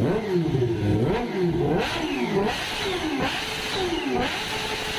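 Superbike engine being revved in a series of throttle blips, its pitch jumping up and sliding back down again and again, about six times.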